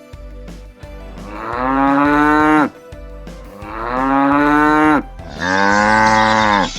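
A cow mooing three times in a row. Each is a long, drawn-out moo, and the third comes quickly after the second.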